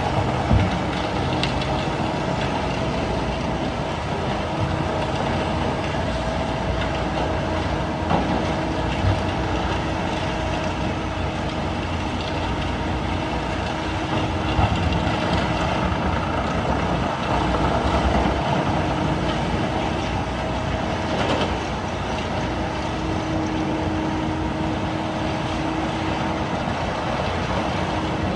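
Excavator's diesel engine running steadily under load, with a steady whine over it and a few short knocks.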